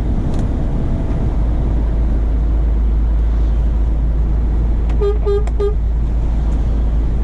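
Steady low drone of a Scania truck's cab at road speed, then three short vehicle-horn toots in quick succession about five seconds in.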